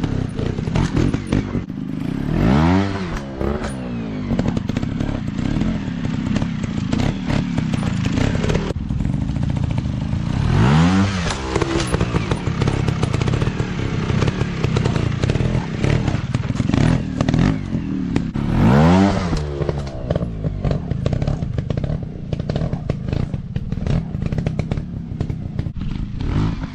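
Dirt bike engines running, with three revs that rise and fall in pitch, about eight seconds apart, over steady clattering and knocking.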